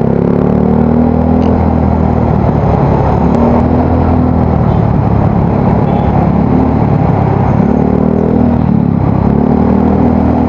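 Yamaha Mio Soul GT scooter engine running through an aftermarket exhaust while riding. The engine note rises briefly near the start and again twice near the end as the throttle is opened.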